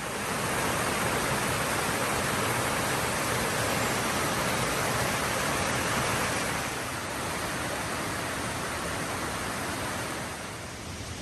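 A creek rushing over stones, a steady wash of water noise that eases slightly about two-thirds of the way through.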